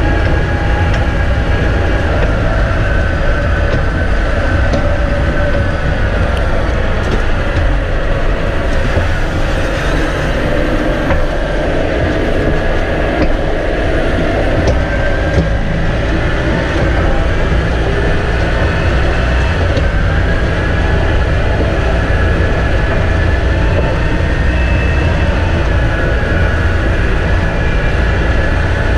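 Tractor engine running steadily under load while pulling a spreader throwing out chicken litter. It is a heavy, even drone with a higher whine that drifts slightly up and down.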